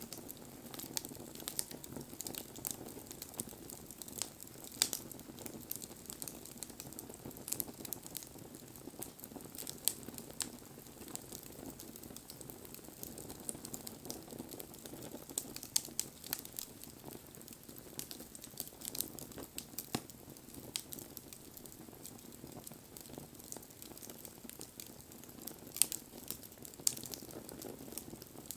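Wood fire burning: irregular sharp crackles and pops from the burning wood over a steady low rush of flame.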